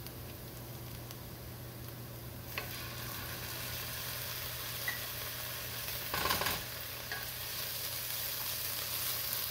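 Chopped onions and ginger-garlic paste sizzling in hot oil in a pot while a wooden spatula stirs them. The sizzle picks up a couple of seconds in, and there is a brief louder scrape of the stirring a little past the middle.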